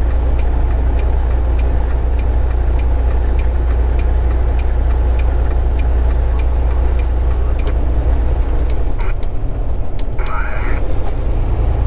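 Cab noise of a Volvo 780 semi truck on the highway: a steady low engine and road drone, with a light regular ticking about two to three times a second for the first several seconds. The low drone eases near the end, where a few sharp clicks and a short chirp are heard.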